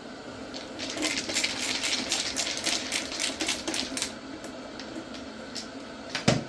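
A rapid run of sharp clicks, about five a second, lasting about three seconds, then one loud knock near the end, over a steady hum.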